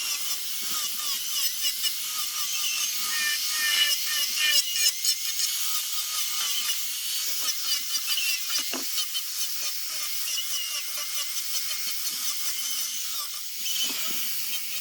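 High-speed rotary power tool sanding zelkova root wood, a continuous high whine that wavers in pitch as the tool bears on the wood.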